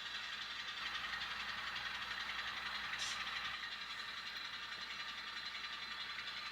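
N scale Alco S4 model locomotive running slowly as it shoves cars along the track: a steady high-pitched running noise with a brief rise about three seconds in.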